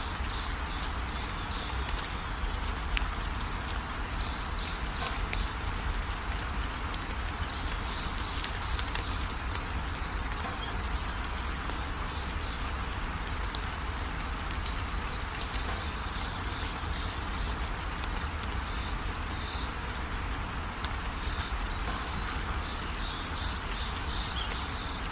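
Steady rain with birds chirping in short high clusters every few seconds, over a steady low rumble.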